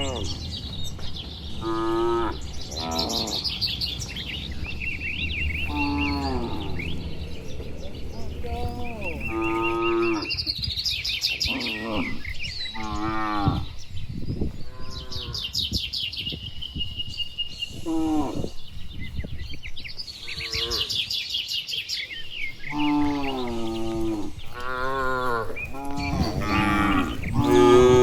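A herd of cattle mooing, one cow after another, with a call every second or two and some calls overlapping. Several calls fall in pitch, and the loudest one comes near the end.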